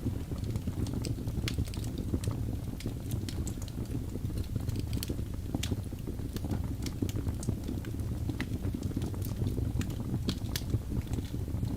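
Wood fire burning in a fireplace: a steady low rumble of flames with sharp, irregular crackles and pops, a few a second.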